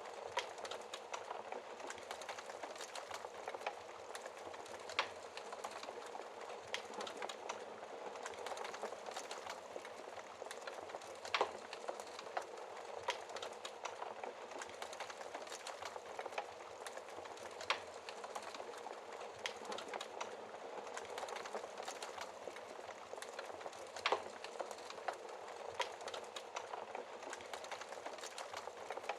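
Wood fire crackling in a fireplace: a steady hissing crackle with scattered sharp pops, a few of them louder, about a third of the way in, past the middle and about four-fifths through.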